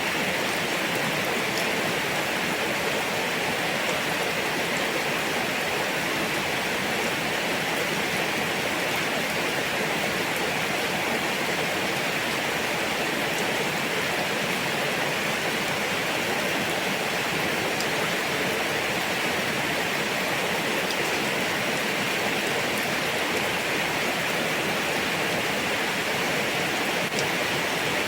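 Rain falling steadily: an even hiss with faint scattered drop taps.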